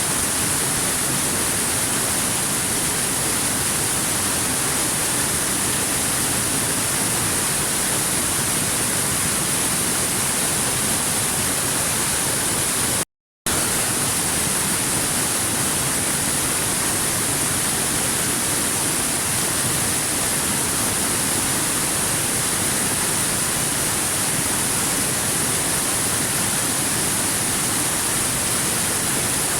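Waterfall: a steady, even rush of falling water with a hissy top. It cuts out completely for a fraction of a second near the middle, then resumes unchanged.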